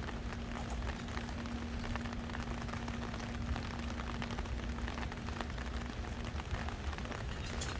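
Heavy rain falling steadily, a dense patter of individual drops hitting a surface, with a steady low hum underneath.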